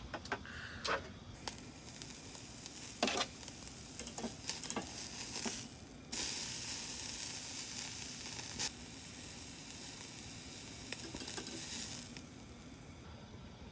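Beef sizzling on a grill over a brazier, with a few sharp clicks and pops in the first half. The sizzle drops off briefly about halfway through, then comes back louder and fades near the end.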